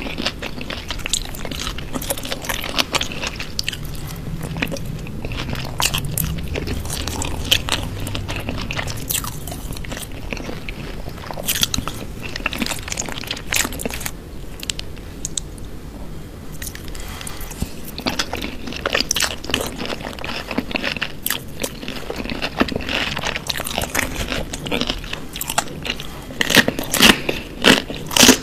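Close-miked eating of raw vegetables: crisp crunching bites and chewing, with sharp crunches throughout and a quick run of louder crunches near the end.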